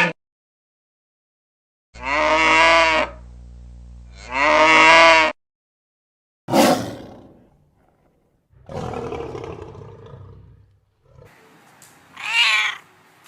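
A run of separate animal calls. Two pitched calls come about two seconds apart, then a sudden loud call that dies away. A rougher, noisier call follows, and a short, higher call comes near the end.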